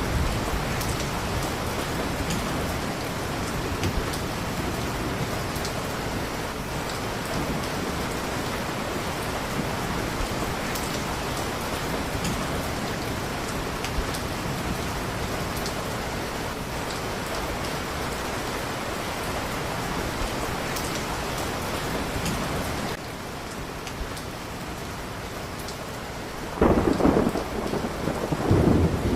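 Steady heavy rain, easing slightly about two-thirds of the way through, with a loud roll of thunder rumbling near the end.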